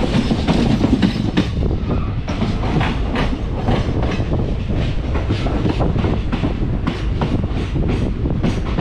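Matsyagandha Express passenger train running on the rails, heard from aboard: a steady rumble with an uneven clatter of wheel clicks over the track.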